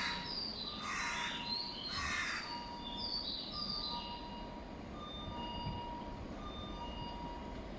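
A crow cawing three times, about a second apart, over faint thin high tones and low station rumble.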